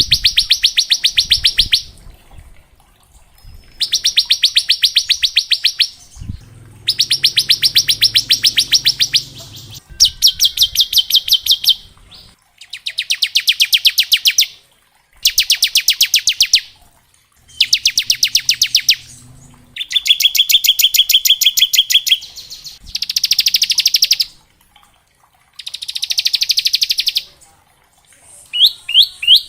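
Bar-winged prinia (ciblek) singing its 'ngebren' song: rapid machine-gun-like trills of sharp high notes, each burst about two seconds long, repeated about ten times with short pauses between.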